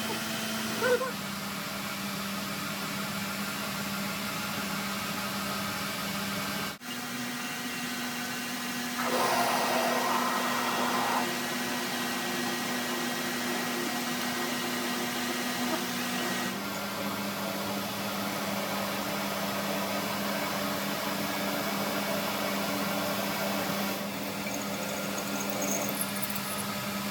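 Steady electric machine hum with a constant low tone, cutting out for an instant about seven seconds in. A louder rushing noise swells for about two seconds around ten seconds in.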